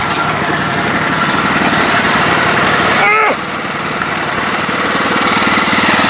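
Engine of a lifted riding lawn mower running steadily, growing a little louder toward the end. About halfway through, a short squeal falls quickly in pitch.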